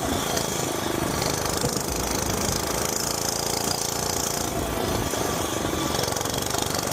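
Gas mini bike's small engine running steadily while riding, a fast, even firing beat.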